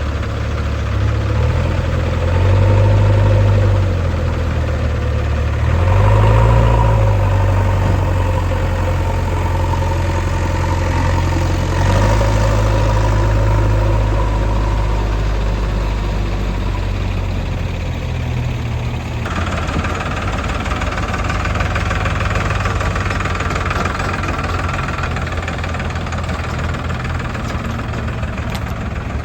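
Heavy diesel engine running and working, its revs rising and falling several times, then steadier after about 19 seconds.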